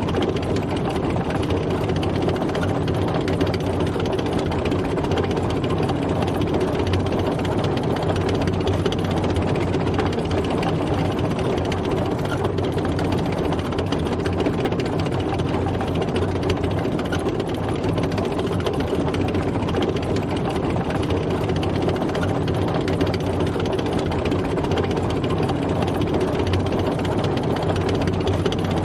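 A tank driving, its heavy engine running steadily at an even level.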